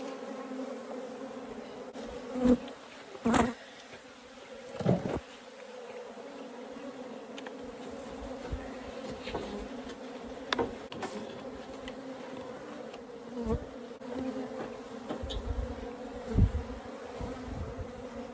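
Disturbed colony of Africanized honeybees buzzing in a steady hum as their nest is opened up, with a few brief louder bursts of sound.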